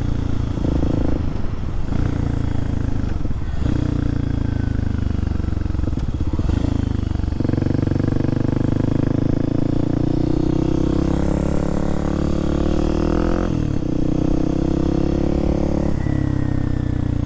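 Kawasaki KLX300SM supermoto's single-cylinder engine running under way, its note rising and falling with the throttle and briefly dropping out several times.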